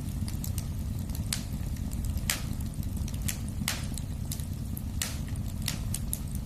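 Wood fire crackling in a fireplace: a steady low rumble of flame with irregular sharp pops and snaps, several louder ones about a second apart among many small ticks.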